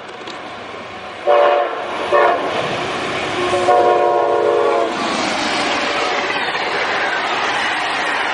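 Amtrak GE Genesis diesel locomotive sounding its multi-tone air horn, two short blasts and then one long one, as it approaches. It then speeds past close by, the passenger train's wheels rushing and clattering over the rails.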